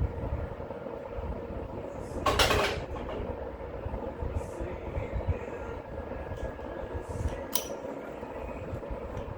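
Steady mechanical hum with a low rumble, broken about two seconds in by a half-second clatter and near the end by a sharp click.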